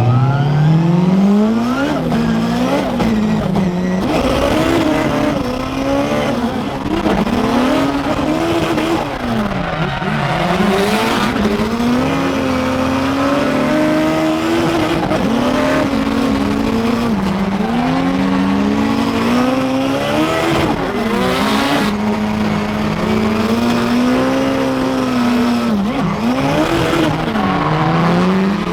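Drift cars' engines revving hard and falling back again and again through a tandem run, over the hiss of tyres sliding and squealing.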